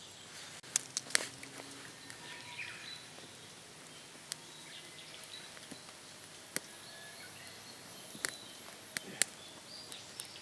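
Wood campfire crackling, with sharp irregular pops every second or so over a faint steady background.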